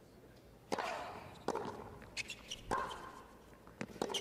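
Tennis rally: sharp racquet-on-ball strikes about every second and a quarter, some with a short grunt from the player on the hit.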